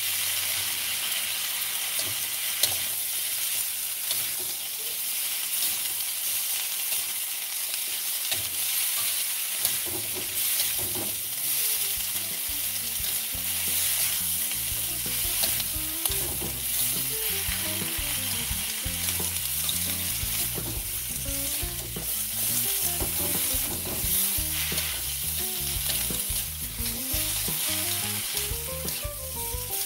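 Chopped Chinese cabbage stir-frying in a metal wok: steady sizzling, with a metal spatula repeatedly scraping and clanking against the wok as the greens are tossed.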